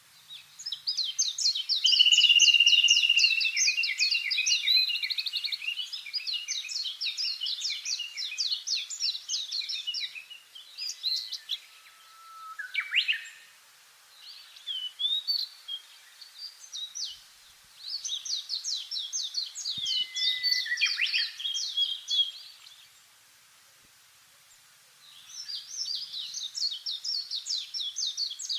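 Small songbirds singing: fast chirping trills in bursts of a few seconds, separated by short pauses, one of about two seconds near the end.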